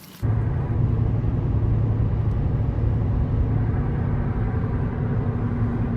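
A vehicle engine running steadily with a deep rumble and a constant hum. It starts abruptly just after the opening.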